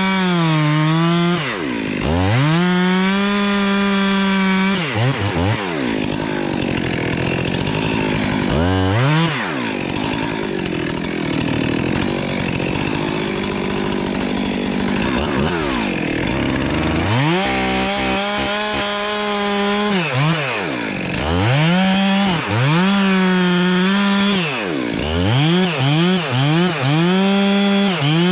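Two-stroke chainsaw running at high revs and cutting through a wood trunk, its note dropping and climbing back each time the throttle is released and squeezed again. Through the middle the engine note goes rougher under the load of the cut, and near the end it is blipped in several quick revs.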